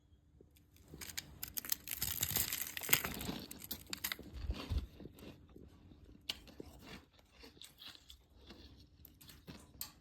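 Close-up crunching of ice being bitten and chewed, the crackle loudest in the first half, then quieter scattered crunches as it is chewed down.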